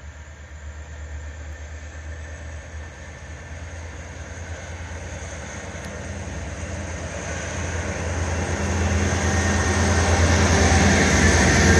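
Diesel-electric locomotives of an empty grain train approaching, their engines humming low and growing steadily louder.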